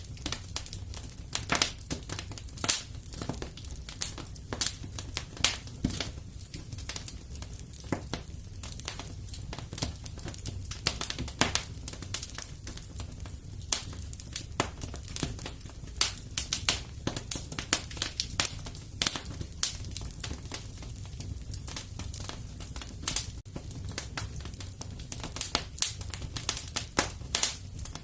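Fire in a fireplace crackling, with many sharp irregular pops and snaps over a steady low rumble of the flames.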